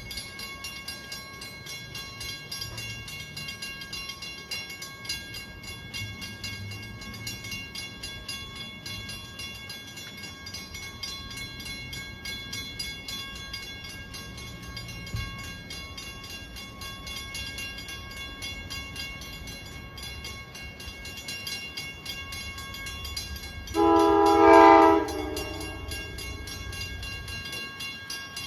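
Train at the station: a steady low rumble with a thin high whine throughout. About 24 seconds in, the locomotive's horn sounds one loud blast of just over a second.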